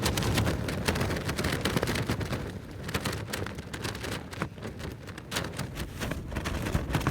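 Strong wind gusting against a 3F UL Lanshan 1 trekking-pole tent, heard from inside: low buffeting rumble with the fabric flapping and crackling in quick sharp snaps.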